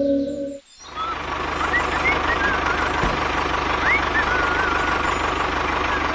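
A small motor or engine runs steadily with a fast low pulsing and a thin whine, starting about a second in after a ringing intro tone cuts off.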